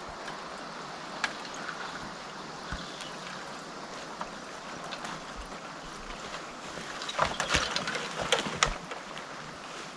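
Small forest stream running with a steady rushing noise, and a run of rustles and knocks from about seven to nine seconds in.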